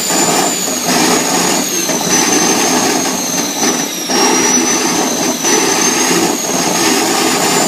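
Small turbojet engine running, a steady roar under a high turbine whine; the whine sags a little in pitch about halfway through and climbs back toward the end.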